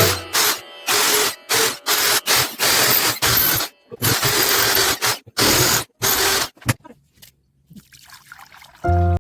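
Water pouring and splashing in short, broken spells that stop about seven seconds in, followed by a brief pitched sound just before the end.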